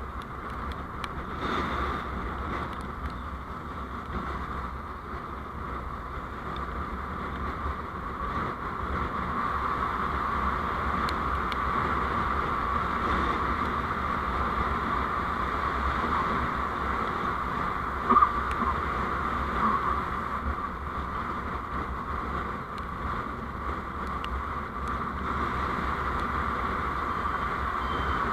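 Steady road and wind noise from a moving vehicle, a low rumble under an even hiss, with a brief sharp knock about eighteen seconds in.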